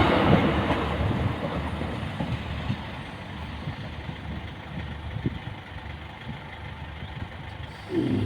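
NIR 3000 class diesel multiple unit's rumble fading away as the train draws off from the level crossing. Just before the end a steady humming tone starts with a short swoop in pitch.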